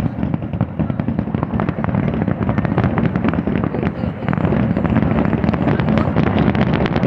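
Fireworks going off in a dense, continuous barrage of rapid bangs and crackling over a low rumble, getting louder about four seconds in.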